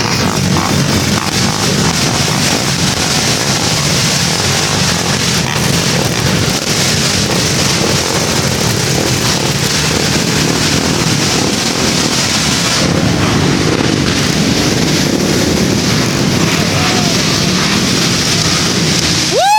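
Dirt bike engines running continuously, with wind buffeting the microphone.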